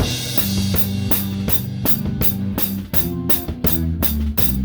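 Live rock band playing an instrumental passage, heard close to the drum kit: a cymbal crash at the start, then steady kick, towel-dampened snare and cymbal strokes over bass guitar and electric guitars.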